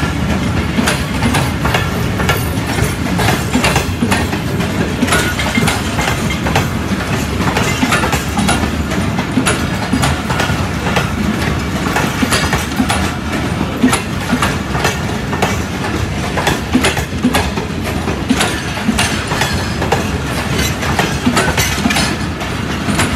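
Passenger train coaches rolling on the track at low speed: a steady rumble and rattle with a continual run of wheel clicks over the rail joints.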